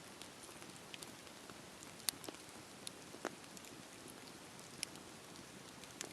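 Wood fire crackling: a steady low hiss with irregular sharp pops, the loudest about two seconds in.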